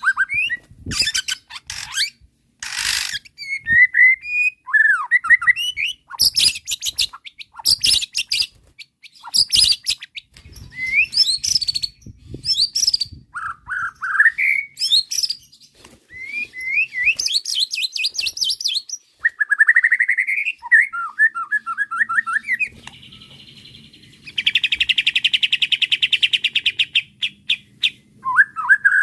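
White-rumped shama (murai batu) in an agitated, full song. It runs through quick whistled phrases, fast chirping trills and sharp high notes, then gives a long buzzing rattle in the last few seconds.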